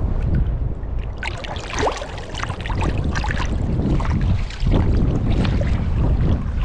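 Water splashing and trickling at a fishing boat, in irregular bursts starting about a second in, over a steady low rumble of wind on the microphone.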